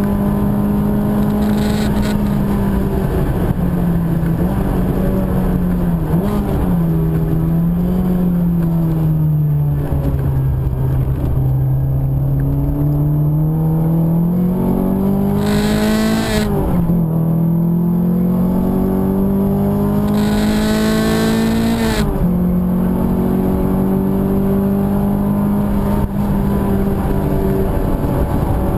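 Car engine heard from inside the cabin on a wet circuit lap. Its pitch holds, sinks slowly through a corner, then climbs hard under acceleration, with two upshifts (about halfway through and again near three-quarters) each dropping it sharply. It then holds steady over a constant rumble of tyre and road noise.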